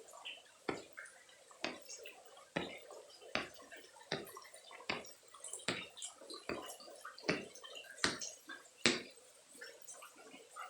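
Rainwater dripping at a steady pace, about one drop every eight-tenths of a second, over a lighter, scattered patter of rain.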